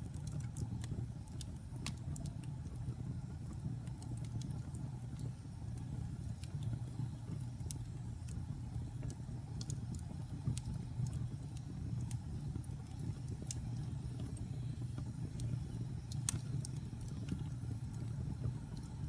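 Wood fire burning in a fireplace: a steady low rumble of the flames with scattered sharp crackles and pops, a louder pop about eight seconds in and another near the end.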